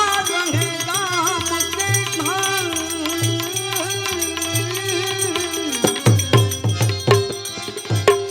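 A male folk singer holds one long, wavering note of a Gujarati devotional bhajan over a pulsing accompaniment with hand percussion. About six seconds in, the held note gives way to a quick run of sharp drum strokes.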